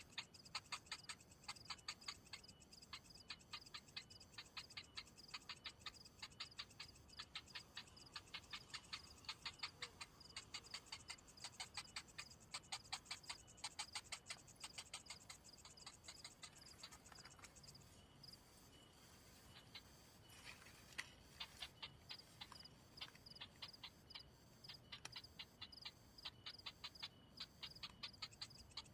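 A belkok (bambang sawah) chick giving rapid, short, ticking calls, about three a second: the chick is hungry and begging for food. The calls pause briefly past the middle, then resume.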